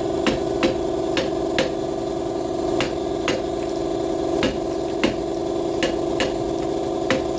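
About a dozen sharp metal hammer strikes, irregularly spaced, knocking a rear axle shaft out of its housing, over a steady machine hum.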